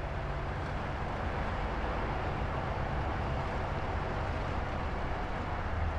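Large truck's engine running as it drives in, a steady low rumble.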